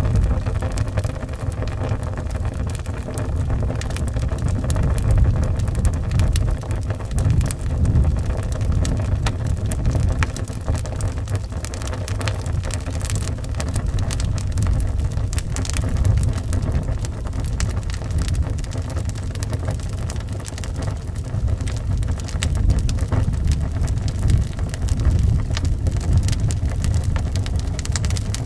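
Wood fire crackling in a fireplace with many small pops, over a steady low rumble of howling wind that swells and eases in gusts.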